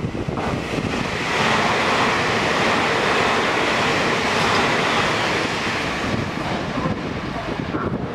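Puyuma Express TEMU2000 tilting electric multiple unit passing through the station without stopping: a rush of wheel and air noise that swells about a second in, holds for several seconds, and dies away near the end.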